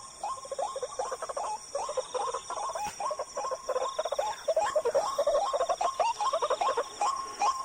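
White-breasted waterhens calling: a continuous stream of harsh, croaking notes, several a second, each dropping in pitch, over a steady high buzz of insects.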